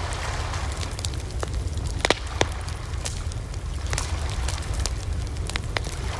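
Wood bonfire crackling, with sharp pops at irregular intervals, the loudest a couple of seconds in, over a steady low rumble.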